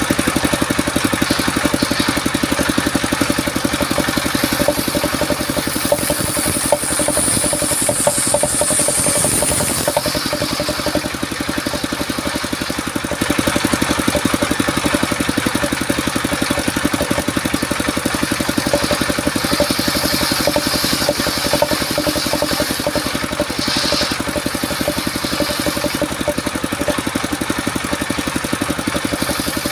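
Engine of a mobile circular sawmill running steadily, with a higher hiss rising over it from about six to ten seconds in and again around twenty seconds in.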